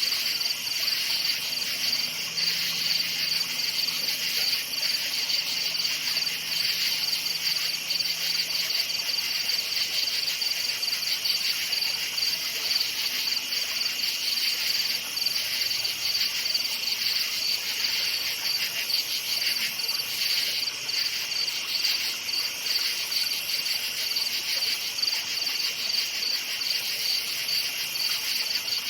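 A chorus of many crickets chirping steadily in a fast pulsing trill at two overlapping high pitches.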